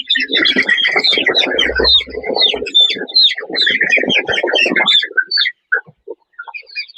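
A crowded flock of young chickens cheeping constantly with many overlapping high peeps. For about the first five seconds a scratchy rustling noise sits under the peeping, then stops.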